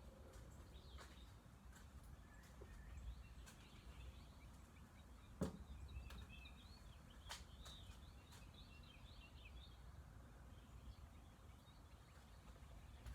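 Faint, scattered bird chirps over a low, steady outdoor background, with one short sharp click about five and a half seconds in.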